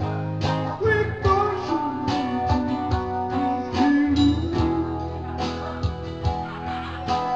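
Live music: a man singing over strummed guitar and a drum beat. The voice comes in about a second in.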